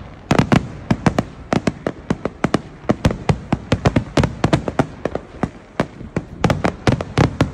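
Fireworks going off in a rapid, irregular series of sharp bangs and crackles, several a second.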